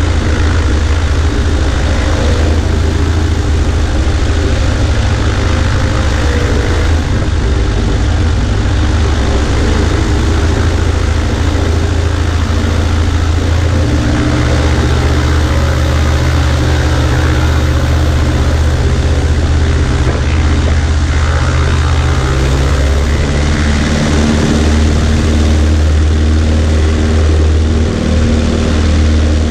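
Cessna 140A's engine and propeller running steadily in flight, heard with a strong rush of air; the engine note shifts slightly about halfway through and again near the end.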